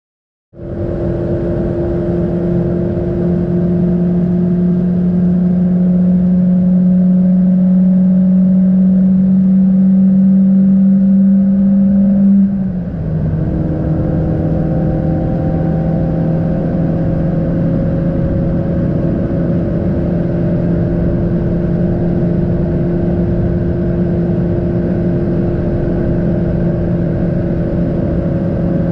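Proton Savvy's 1.2-litre four-cylinder engine heard from inside the cabin under steady load at high speed, with road and tyre noise beneath it. It comes in about half a second in and climbs slowly in pitch. About twelve seconds in it drops sharply in pitch and briefly dips in loudness as the car shifts up into fifth gear, then runs on evenly at the lower pitch.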